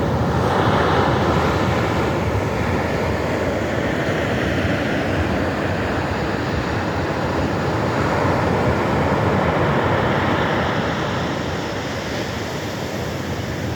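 Pacific Ocean surf washing onto the shore, a continuous wash of noise that swells about a second in and again around eight to ten seconds in.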